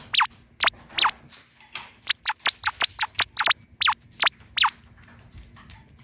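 Cats giving a rapid string of short, high-pitched mews, each one dropping in pitch, typical of cats begging at mealtime; the calls stop a little before the end.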